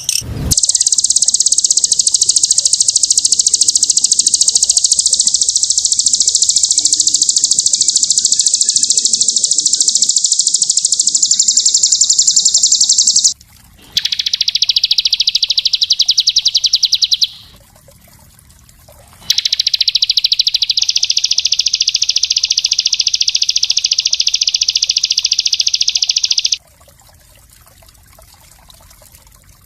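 Small songbird singing long, very fast, high-pitched trills in three bouts, the first lasting about thirteen seconds, with short pauses between.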